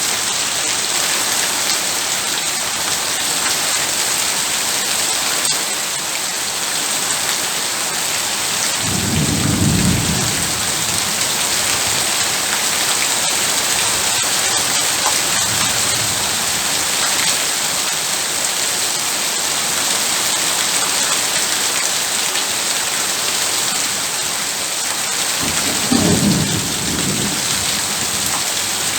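Heavy rain falling steadily, with a low rumble of thunder about nine seconds in and another near the end.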